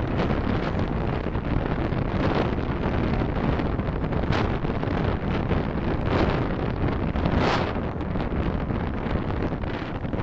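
Car driving in city traffic, heard through a dashcam: steady road and wind noise, with four brief swells of louder noise along the way.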